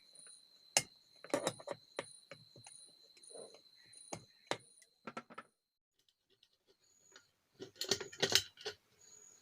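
Small metal parts and tools clicking and clinking in irregular bursts as the retaining clips holding an electric kettle's thermostat are worked off, with a short pause midway and a busier cluster near the end.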